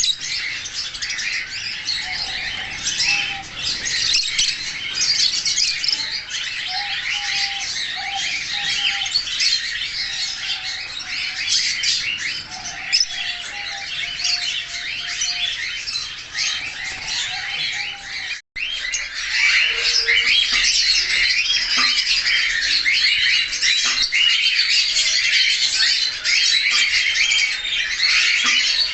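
A group of caged budgerigars chattering and chirping continuously in a dense, overlapping warble. The chirping breaks off for a moment about 18 seconds in and comes back louder.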